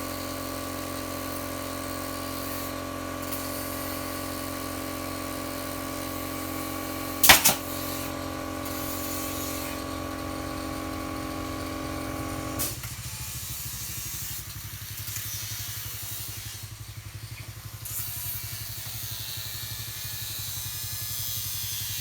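A power tool's motor running at a steady pitch cuts off suddenly about 12 to 13 seconds in, while a lower hum carries on. A sharp double knock comes about 7 seconds in.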